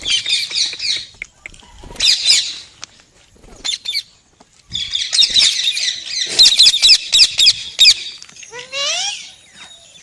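Pet talking parrot chattering and squawking in short bursts of rapid high chirps, with a long unbroken run of chatter from about five to eight seconds in. Near the end it gives a rising whistled call.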